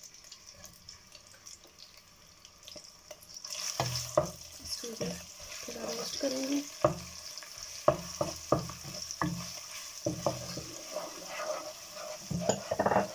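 Ginger-garlic paste sizzling in hot olive oil in a nonstick pot, with a wooden spoon stirring and scraping the pan in repeated strokes. The sizzle and stirring start a few seconds in.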